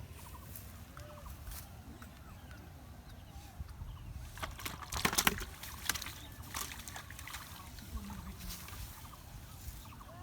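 Water splashing and sloshing, with a short burst of loud splashes about halfway through, over a low steady background.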